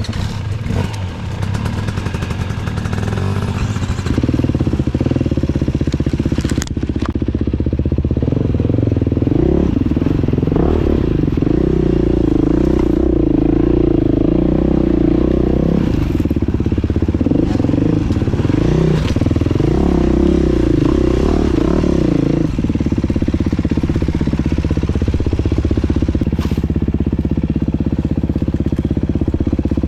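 Dirt bike engine running while riding a trail, its revs rising and falling with the throttle through the middle stretch, then holding steadier from a little past two-thirds of the way in.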